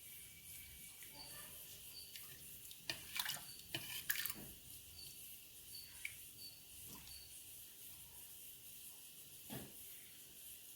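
Faint eating sounds: wet squishing and smacking of rice mixed with sambar being eaten, loudest in a short cluster a few seconds in, with repeated short high chirps in the background.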